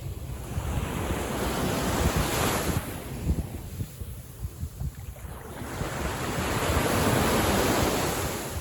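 Sea waves on a calm sea washing in, two swells of surf about five seconds apart, with a low wind rumble on the microphone.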